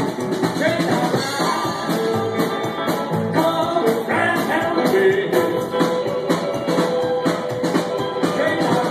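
Rockabilly band playing live: electric guitars, stand-up bass and drums in a driving, up-tempo groove.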